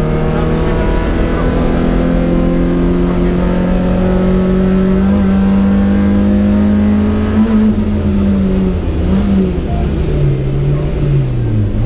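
BMW E30 318is rally car's 1.8-litre four-cylinder engine, heard from inside the cabin, pulling under load with the revs climbing slowly for about seven seconds. The revs then drop and rise again several times in quick succession near the end.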